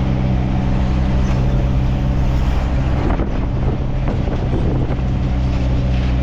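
Truck engine running steadily under way, with road and wind noise; the engine note briefly breaks about three seconds in.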